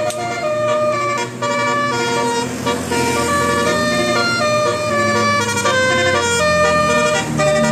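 Music: a reedy wind instrument plays a melody of held notes stepping up and down over a steady low drone.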